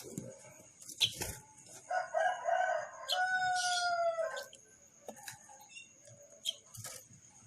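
A rooster crowing once, starting about two seconds in: a choppy, broken opening, then one long held note that sags slightly before cutting off about two and a half seconds later. Scattered sharp clicks and faint short high chirps around it.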